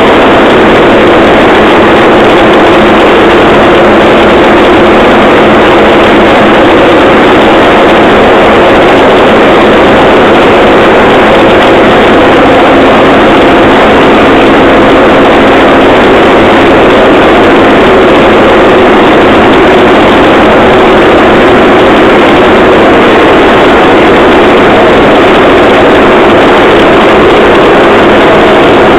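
Handmade open rail trolley running along the track, loud and unchanging: a steady engine drone over continuous running noise.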